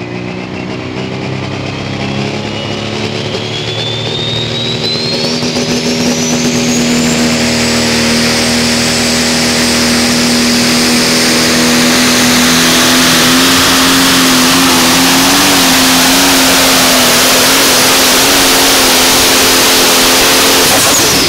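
John Deere 5020 pulling tractor's six-cylinder diesel at full throttle under load down the track, a high whistle climbing over the first several seconds and then holding. The engine note wavers late in the pull.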